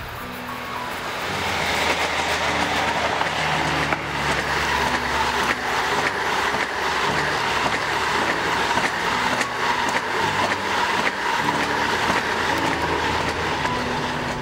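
Electric locomotive and a long train of passenger coaches passing at speed: a steady rush of wheel and rail noise that swells over the first two seconds and then holds.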